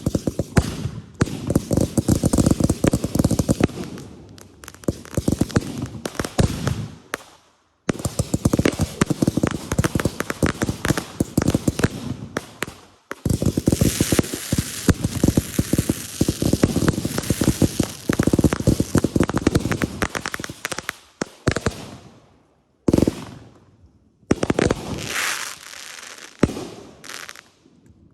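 Consumer fireworks going off: dense, rapid crackling and popping in long volleys. There are short breaks after about eight and thirteen seconds, then a longer lull near the end before a last, shorter volley.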